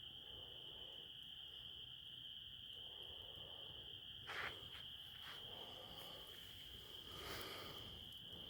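A steady, faint chorus of crickets with one unbroken high trill, and a few sharp pops and crackles about halfway through and again near the end, fitting a wood fire crackling.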